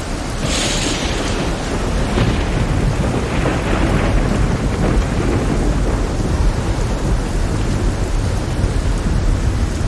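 Heavy rain hissing steadily, with thunder: a sharp crack about half a second in, then a low rolling rumble that builds and carries on.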